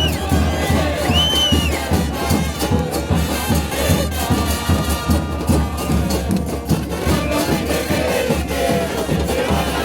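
A crowd of football supporters singing with drums and brass instruments, with a steady beat and a couple of short high whistle-like glides.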